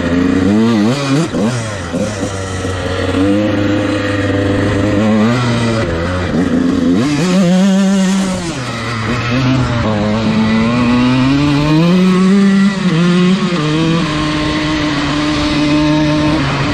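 Dirt bike engine being ridden, its pitch rising and falling over and over with throttle and gear changes, then holding steadier near the end.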